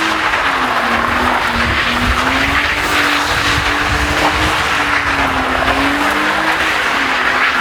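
Drift car engine held high in the revs, its pitch swaying up and down, over a continuous squeal of rear tyres spinning and sliding.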